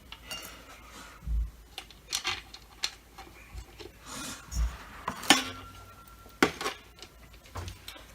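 Plastic parts and screws of a Dyson DC25 vacuum being handled during reassembly: irregular clicks and knocks, with the loudest knocks about five seconds in and again about six and a half seconds in.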